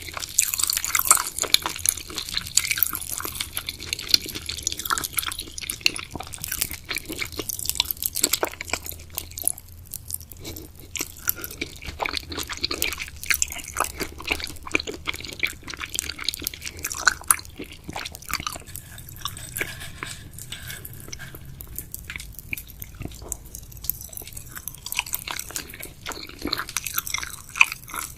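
Close-up wet chewing of jelly, boba and gummy candies, with many small sticky, squelchy clicks.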